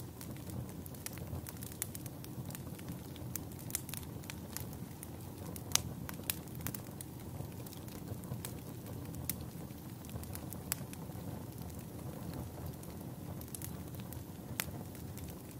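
A wood campfire burning: a steady low rumble of flame with irregular sharp crackles and pops, the loudest pop about six seconds in.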